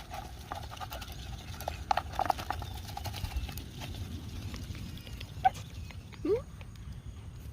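Ducks and geese calling: a quick run of short calls over the first few seconds, then a sharp single call and one short call that glides upward near the end.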